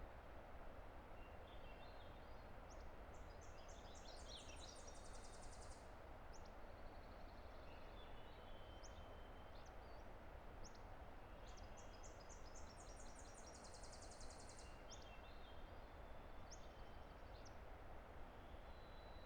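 Faint, steady rush of a distant river. Over it a songbird sings a high trilling song twice, about nine seconds apart, with short high calls in between.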